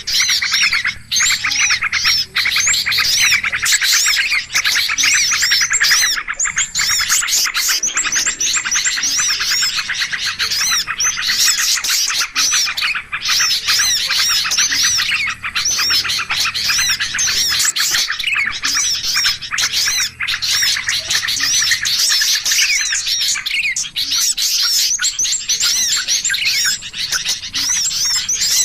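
Bird-lure recording of many small birds chirping and chattering over one another in a dense, unbroken chorus of quick, high notes, the busy flock sound used to draw birds in.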